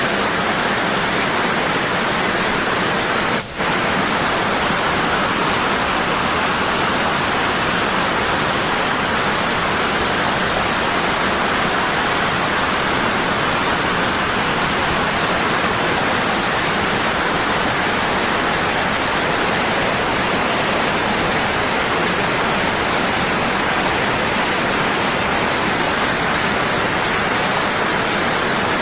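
Waterfall: water falling heavily and steadily, a constant rushing noise, with a momentary dip about three and a half seconds in.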